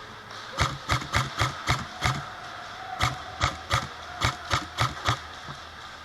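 Airsoft gun firing single shots, about three a second, in two strings: about six shots, a pause of about a second, then about seven more.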